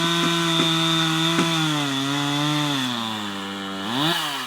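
Two-stroke chainsaw running while cutting a downed tree. Its pitch sinks for a couple of seconds, then it revs up quickly about four seconds in before dropping away near the end.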